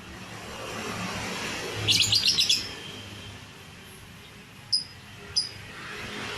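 Lovebird chirping: a rapid run of about six sharp chirps about two seconds in, the loudest part, then two short high chirps near the end.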